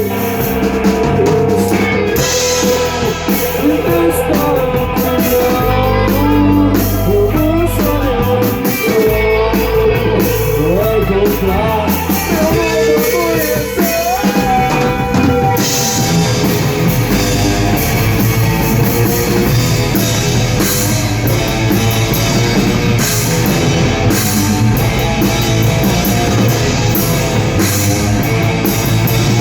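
Rock band playing live: electric guitar and drum kit, with a gliding melodic line over a steady, loud low end, in an instrumental stretch of the song.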